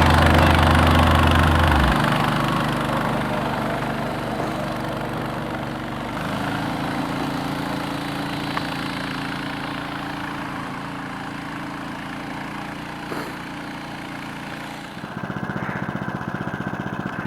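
Engine of a KOiRA motorized snow tow tractor running steadily and growing fainter over the first dozen or so seconds. About fifteen seconds in it turns louder, with an even, pulsing beat.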